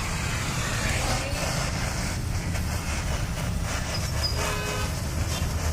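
Steady low rumble of a running vehicle engine, with a few faint short tones about four seconds in.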